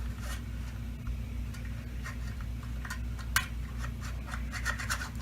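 Small plastic clicks and scrapes of Dyson DC25 vacuum parts being handled and fitted together, with one sharp click about three and a half seconds in and a quick run of clicks near the end, over a steady low hum.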